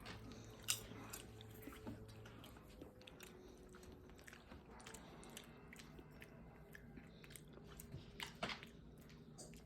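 Faint chewing and crunching of seasoned microwave popcorn in the mouth, with a few sharper crunches, one at under a second in and another near the end.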